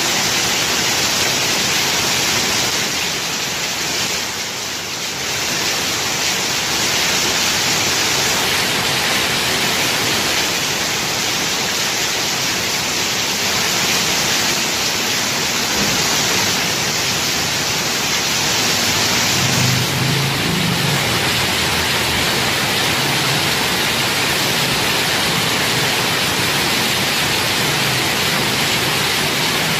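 Heavy rain pouring down steadily, a dense, even hiss of downpour.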